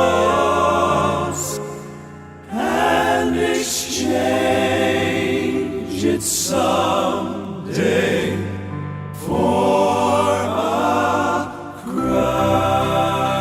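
Male gospel quartet singing in close harmony in long, held phrases, with short breaks between phrases.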